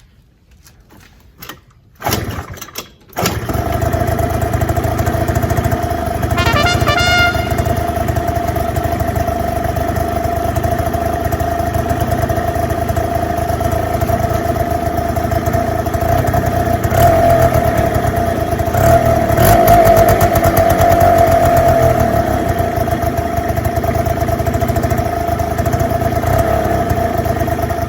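Suzuki Let's 2 scooter's 50cc two-stroke engine being started after long disuse: a short burst of cranking, then it catches about three seconds in and keeps running steadily, louder for a few seconds past the middle.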